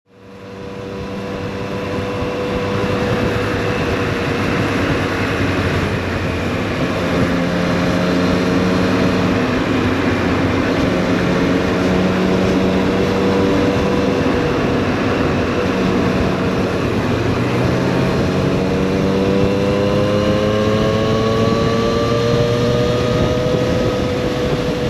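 Triumph Street Triple 765 RS's inline three-cylinder engine running under way on the road, with a steady rush of wind noise; the revs climb over several seconds near the end. The sound fades in over the first couple of seconds.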